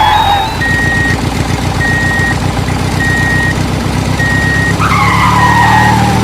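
Heavy vehicle engine running with a fast, even chug, while a reversing alarm beeps about once a second, five beeps in all. A falling squeal comes about five seconds in.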